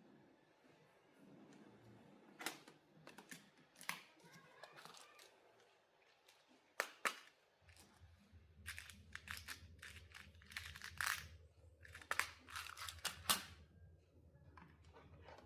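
Workbench handling noise: scattered sharp clicks and scrapes, coming thick and fast in the second half. A steady low hum starts about halfway through.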